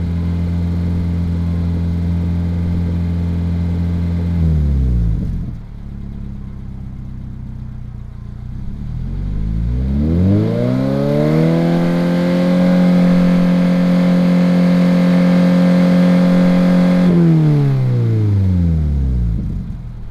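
Subaru/Toyota 2.4-litre flat-four engine running through a FactionFab catback exhaust with a mild, deep tone. The engine is held at raised revs, drops to idle about four seconds in, and is revved up again and held for several seconds. Near the end it falls back to idle.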